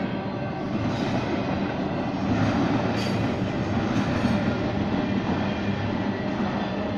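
Intermodal freight cars rolling past at a grade crossing: a steady rumble and clatter of steel wheels on the rails, with a few sharp clacks as wheels cross the rail joints.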